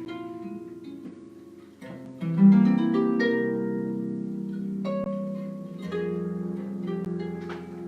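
Harp playing jazz: plucked single notes, then a louder chord struck about two seconds in, its notes left ringing as more notes follow.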